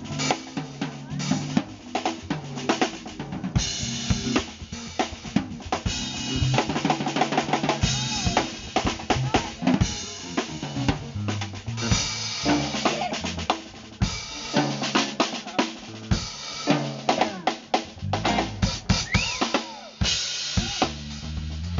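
Live drum kit solo: fast, busy kick drum, snare and rimshot strokes, with cymbal crashes ringing out every couple of seconds.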